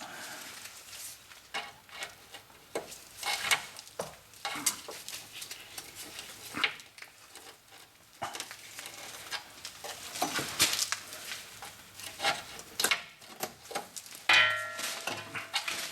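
Irregular metallic clicks, taps and scrapes of a hand tool working a rusty parking brake cable and its barbed fitting loose, over a light hiss of rain. A short squeak comes near the end.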